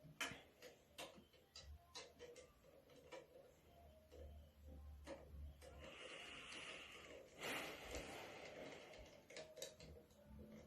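Faint scattered clicks and taps of small plastic bottles and cups being handled, with a soft rustle partway through, as a food-colouring bottle's cap is screwed shut and the next dye bottle is picked up.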